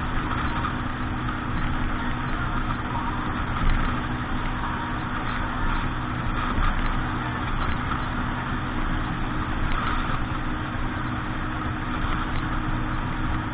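A boat's motor running steadily, with a constant low engine hum under a rushing, noisy hiss.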